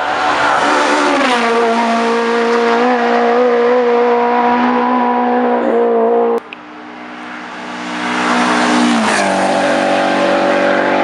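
Two hillclimb race cars passing close by at full throttle, one after the other. The first engine's note drops as it goes past, then holds steady until it cuts off suddenly about six seconds in; the second grows louder and its note drops as it passes near the end.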